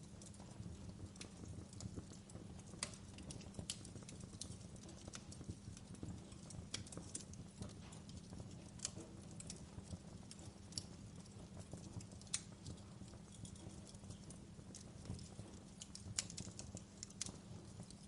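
Wood fire burning in a fireplace: irregular crackles and pops from the logs over a low steady rumble of the flames, with a few sharper pops about 3, 12 and 16 seconds in.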